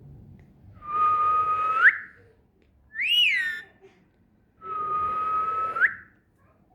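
Pet parrot whistling: two long, steady whistles that each flick sharply upward at the end, with a short rising-and-falling call between them.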